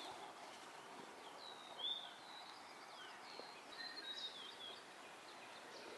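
Faint wild birdsong: a scatter of short, high chirps and whistles over a low outdoor hiss, mostly in the middle of the stretch.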